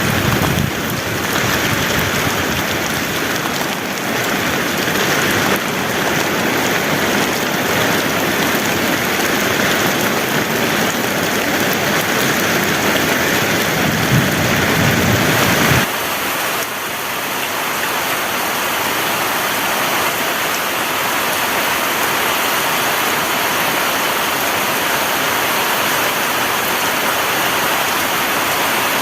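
Heavy rain falling in a steady, dense downpour. About halfway through, the low rumble under it drops away and the rain sounds thinner.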